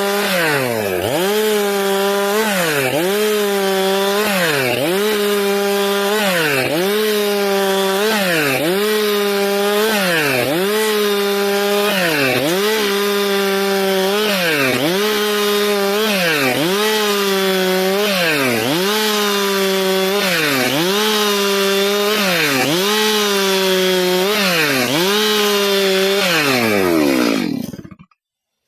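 Stihl MS462 two-stroke chainsaw running at high speed while sawing eucalyptus boards, its engine note dipping briefly and recovering about every two seconds. Near the end the engine note falls away and the sound stops suddenly.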